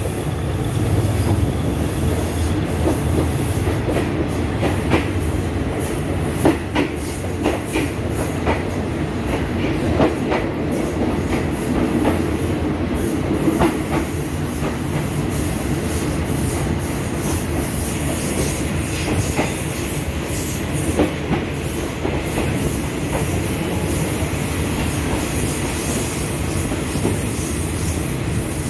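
Passenger train coaches rolling along a station platform, with a steady rumble of the running gear and irregular clicks and knocks of the wheels over rail joints. The clicks are mostly in the first half.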